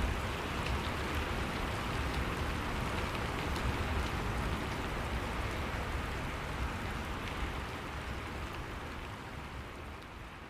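Steady rain ambience with a low rumble underneath, slowly fading out near the end.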